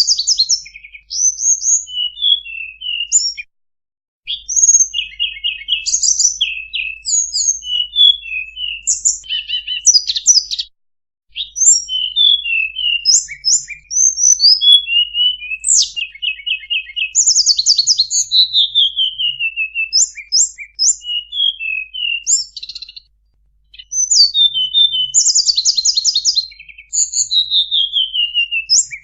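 Tledekan songbird singing a fast, varied high-pitched song of chirps, quick trills and long falling whistles, in runs broken by short pauses about 4, 11 and 23 seconds in.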